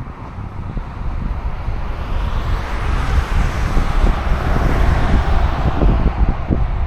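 A car passing on the road, its tyre and road noise swelling to a peak midway and fading again, over wind buffeting the microphone.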